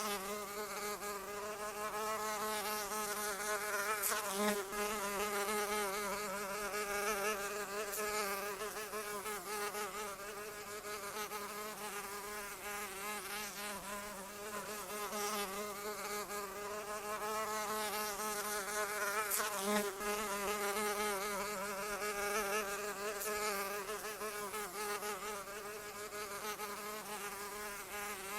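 Flying insect buzzing continuously, its pitch wavering up and down as it moves, swelling louder a few seconds in and again past the middle.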